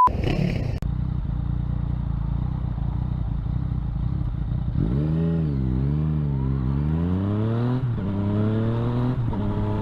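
Motorcycle engine running under way, its pitch swinging up and down from about five seconds in, then climbing steadily under acceleration with two gear changes near the end.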